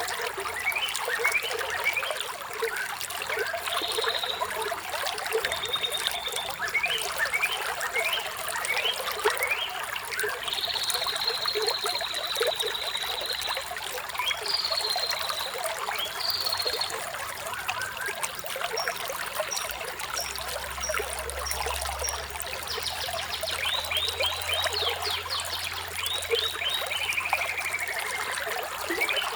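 Running water trickling and splashing without a break, with songbirds chirping over it: short rising chirps, a buzzy trill lasting a few seconds near the middle, and a fast run of chirps near the end that slides down in pitch.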